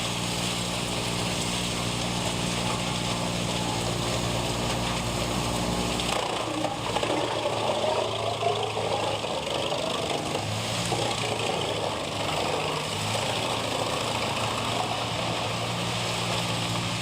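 Engine of heavy forestry machinery running steadily. About six seconds in, the deep hum drops away and a wavering higher whine rises and falls for a few seconds. Then the steady engine hum returns.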